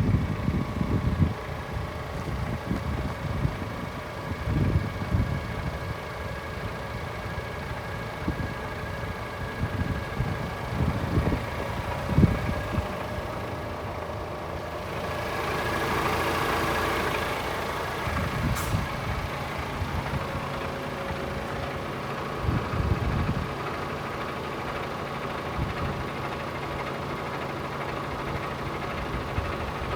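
Paccar 440 hp Euro 6 diesel engine of a DAF CF440 tractor unit idling steadily, with irregular low thumps in the first half. About halfway through, a hissing rush swells for a few seconds, followed by a single sharp click.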